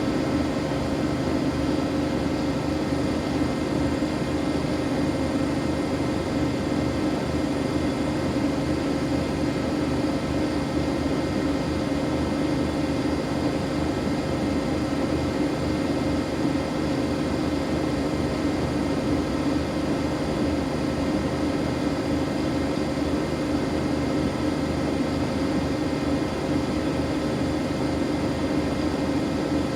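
Siemens Siwamat iQ 716 front-loading washing machine running steadily: a constant motor hum with a steady whine, unchanging throughout.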